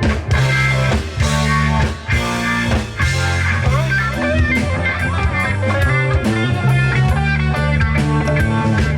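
Live band playing an instrumental passage: electric guitar over bass and drum kit, with the guitar bending notes up and down in the middle.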